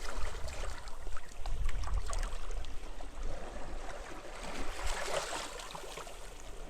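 Sea waves washing on the beach, one swelling wash about five seconds in, with small splashes and gusty wind rumbling low on the microphone.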